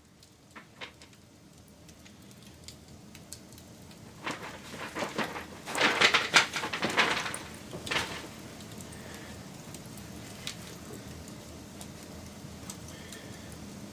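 Wood campfire crackling and popping, with a dense flurry of loud crackles about four to eight seconds in, then a steady hiss with scattered pops.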